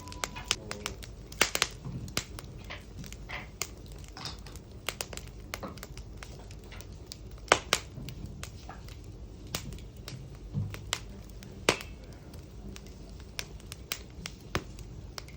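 Wood fire burning in a fire pit, crackling with irregular sharp pops, a few of them much louder than the rest.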